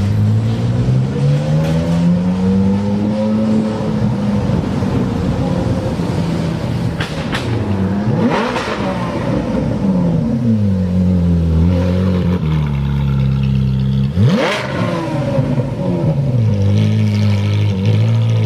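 Supercar engine and exhaust running loud, its pitch climbing and dropping as it revs and accelerates, with two quick sharp sweeps in pitch about eight and fourteen seconds in.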